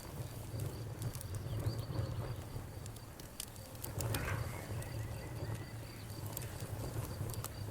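Wood fire burning in a fireplace, crackling with scattered sharp pops over a low steady rumble of the flames.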